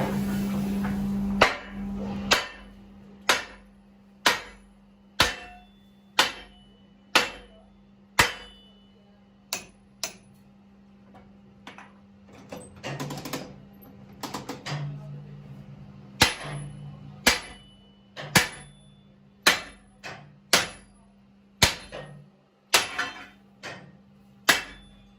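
Hammer blows on a truck rim, roughly one a second, each ringing briefly, with a few lighter taps midway. A low steady hum runs underneath.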